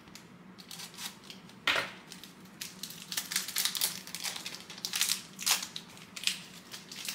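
A trading-card pack wrapper being torn open and crinkled by hand: irregular crackling and tearing, with a sharp rip about a second and a half in.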